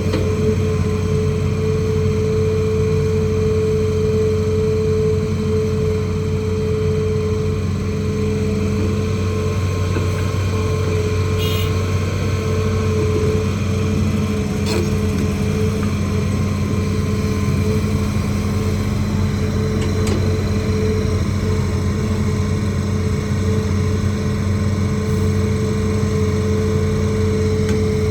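Hitachi ZAXIS200 excavator's diesel engine running steadily at constant speed, a continuous hum with a steady higher tone over it. A couple of faint clicks come midway.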